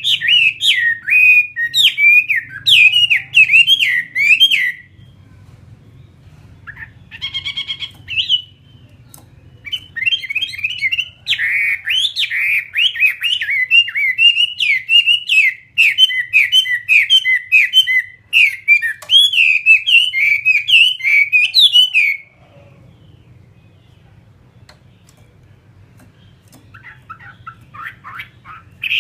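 Chinese hwamei (họa mi) singing: loud, rapid runs of varied whistled phrases in three spells, a few seconds at the start, a short burst about seven seconds in, and a long stretch from about ten to twenty-two seconds in. In the pauses only a faint low hum remains.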